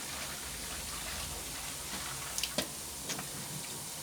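Water running steadily from a tap turned up to higher pressure, with a few sharp knocks about two and a half seconds in and once more shortly after.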